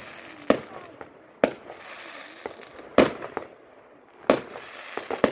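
Aerial firework shells going off in a series of about five sharp bangs a second or so apart, the loudest about three seconds in, with a steady noisy hiss between them.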